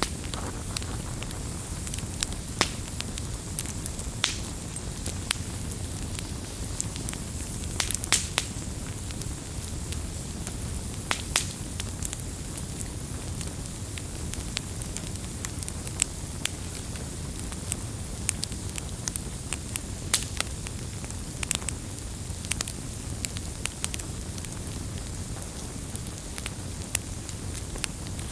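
Burning firewood: a steady low rumble of the fire with frequent irregular sharp crackles and pops from the logs.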